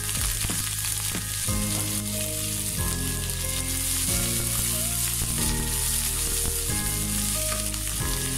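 Sliced onions sizzling as they fry in hot oil in a wok, a steady hiss, with soft background music underneath.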